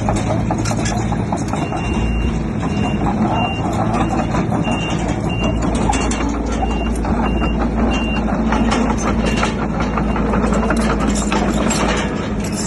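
Back-up alarm on heavy construction machinery beeping about twice a second, stopping a few seconds before the end, over the steady rumble of a diesel engine. Frequent clanks and rattles run through it.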